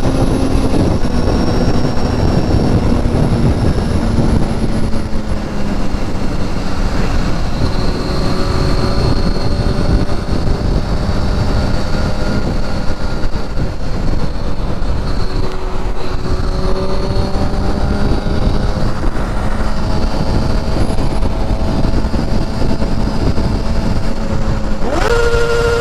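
Motor vehicle cruising at highway speed: a steady engine drone that drifts slowly in pitch over heavy wind and road noise. Near the end a horn starts sounding.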